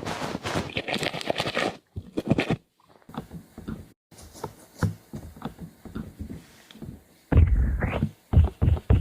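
Close-miked ASMR trigger sounds made by hand: a dense crackle of small clicks for about two seconds, then scattered taps and scrapes, and a run of heavy, muffled low thumps near the end.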